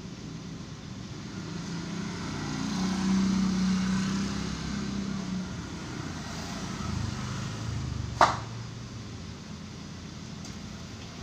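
A car engine running, its sound swelling between about two and five seconds in and then easing, with a single sharp knock about eight seconds in.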